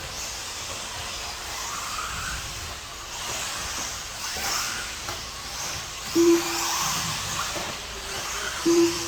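Radio-controlled mini truggies racing on the track: a steady whir and hiss of the small motors and tyres, rising and falling. Two short, flat beeps sound, one about six seconds in and another near the end.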